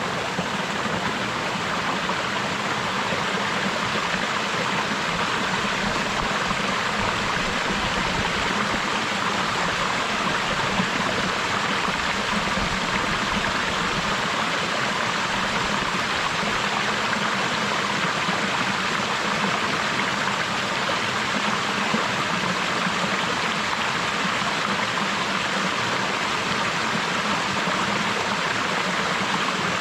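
Small waterfall splashing steadily, a continuous even rush of falling water.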